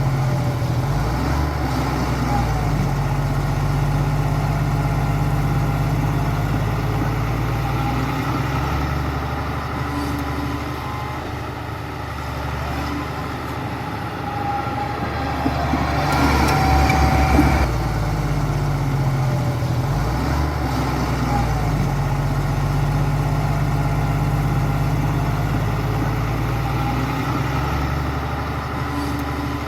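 Heavy diesel engine of earthmoving machinery working, its note shifting up and down with the load, with a louder, harsher stretch lasting a second or two about halfway through.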